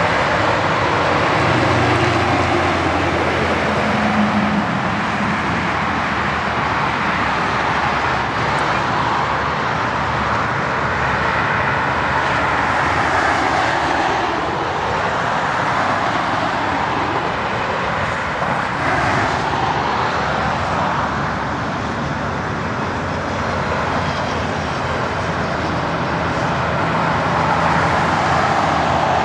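Highway traffic with heavy trucks and cars driving past: a continuous rush of tyre and engine noise, with a low engine drone in the first few seconds.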